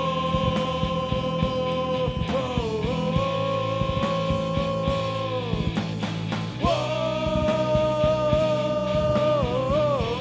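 Punk rock band playing live, with drums under two long held notes that bend in pitch at their ends, each lasting about four seconds.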